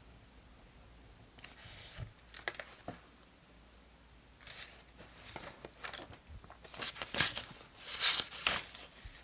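Paper being handled in short bursts of rustling, crinkling and tearing, like sticker sheets or paper being torn and crumpled, loudest about seven to eight and a half seconds in.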